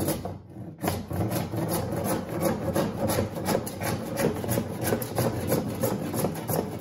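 Hand saw cutting through a white plastic pipe with quick back-and-forth strokes, pausing briefly about half a second in.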